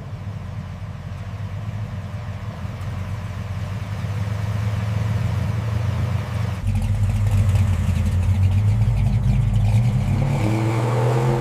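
Car engine running, growing steadily louder, with a heavier, deeper note from about six and a half seconds in.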